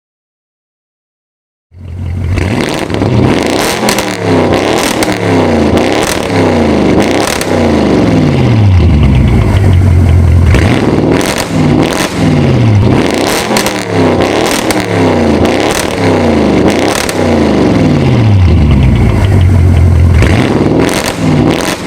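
Audi RS7's twin-turbo 4.0 V8 through an Armytrix exhaust, revved again and again: the note climbs and falls many times, twice holds high for a couple of seconds, and sharp cracks come between the revs. It starts after a short silence and cuts off at the end.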